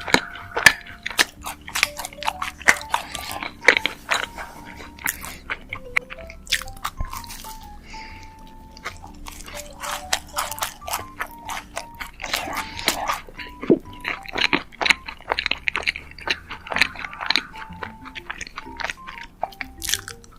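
Close-miked biting and chewing of a macaron, the shell crunching in many small crisp crackles, over soft background music.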